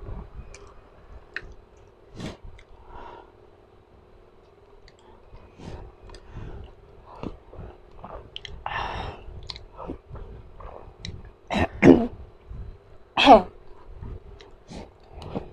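Close-miked chewing of spicy cup noodles, with many small mouth clicks and a few breathy sounds. Two short, louder sounds come about twelve and thirteen seconds in.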